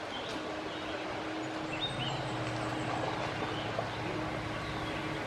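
Outdoor ambience: a steady wash of noise with a few short bird chirps about two seconds in, and a low steady hum through the middle.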